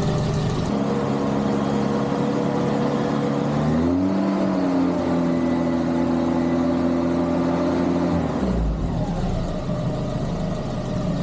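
Renault 8 engine running steadily, then raised to a higher, held speed about four seconds in and let back down about four seconds later, as the ignition timing is checked.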